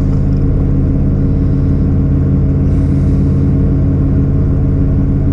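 Car engine idling steadily with an even low hum, running cold just after being started in freezing weather.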